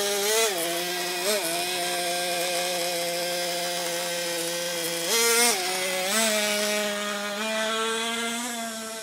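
Nitro RC car's small glow-fuel engine idling steadily, with short throttle blips: a quick rev about half a second in, another at about a second, and two stronger revs about five and six seconds in.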